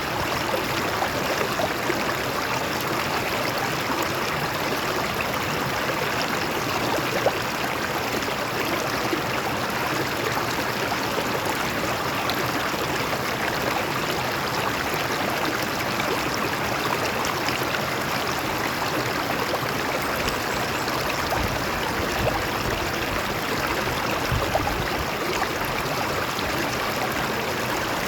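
Water of a stream flowing over rocks, a steady splashing rush with small gurgles and no break.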